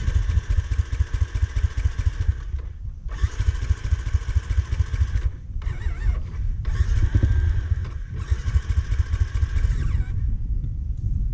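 Dirt bike engine running under way, the revs surging and dropping off briefly several times before easing off near the end. The bike's clutch plate is worn.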